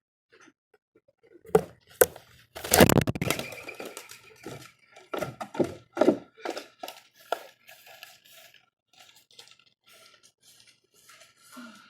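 Birds at a feeder, knocking and scrabbling against it. There are two sharp knocks, a loud rustling burst about three seconds in, then a run of irregular taps and knocks.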